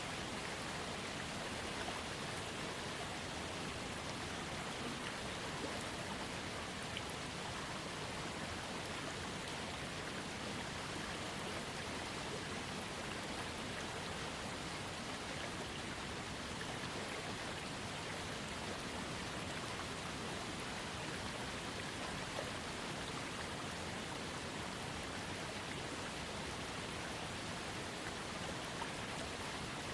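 Small waterfall fed by a trickling creek: water falling and splashing steadily, an even rushing hiss with no change.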